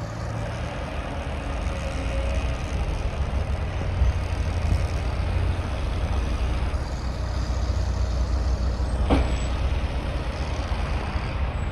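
Heavy diesel vehicles or machinery running, a steady low rumble, with a brief sharp sound about nine seconds in.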